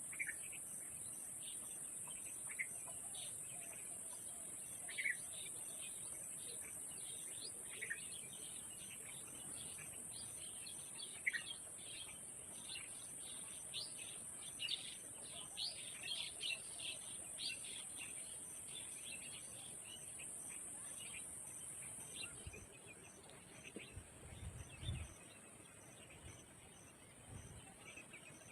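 Birds giving many short high chirps and calls, busiest in the middle, over a steady high insect drone and a fast, evenly pulsing cricket-like trill; the drone cuts off about three quarters of the way through, and a few low thumps follow near the end.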